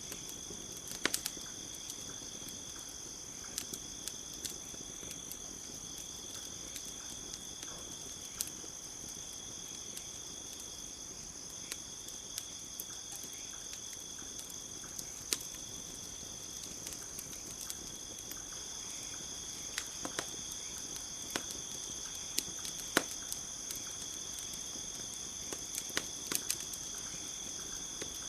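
Campfire crackling with irregular sharp pops, over a steady chorus of crickets trilling at two high pitches.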